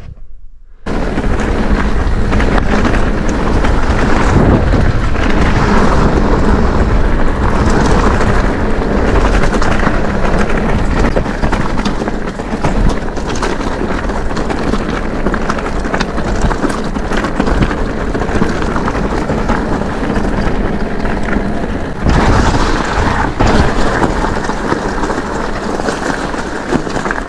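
Wind buffeting the action-camera microphone while a Mondraker e-mountain bike rolls down a rough trail, with steady tyre rumble and frequent small knocks and rattles over the ground. It starts abruptly about a second in, after a moment of silence.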